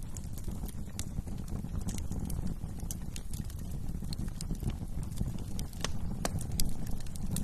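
Wood fire burning in a fireplace: a low steady rumble of flames with frequent sharp crackles and pops at irregular intervals.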